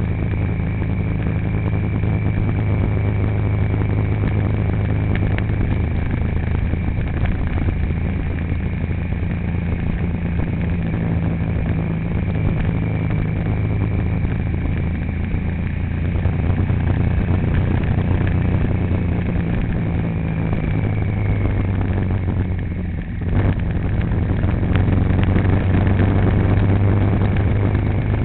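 A motor vehicle's engine running steadily under way, a continuous low drone with a thin high whine above it. The engine note briefly drops and picks up again near the end.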